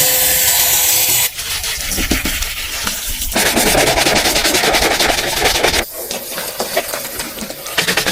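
Truck-detailing cleaning sounds in a run of short cuts: a steady hiss of spray, then bursts of dense spraying and rapid rubbing or scrubbing strokes, each section cutting off abruptly.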